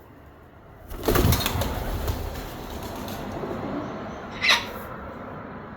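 Wild birds' wings flapping in a sudden loud flurry about a second in, fading over the following seconds, with one brief sharp sound about four and a half seconds in.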